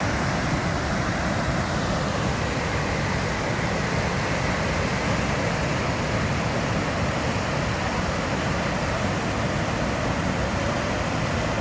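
A large volume of water rushing steadily as it is discharged into a river: an even, unbroken noise with no separate events.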